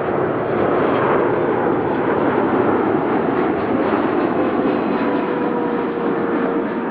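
Jet airliner's engines heard loud and close as the aircraft passes: a rough, steady rush of engine noise with a faint tone slowly falling in pitch, easing off slightly near the end.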